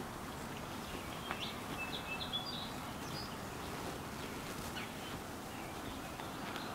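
Steady outdoor background noise with a few short, high bird chirps about one and a half to three seconds in.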